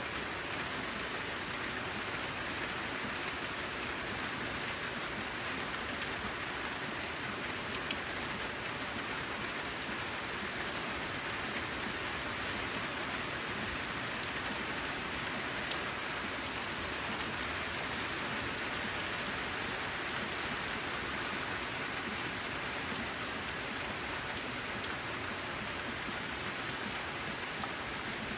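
Steady rain falling on a corrugated zinc roof: an even, dense hiss with individual drops ticking through it.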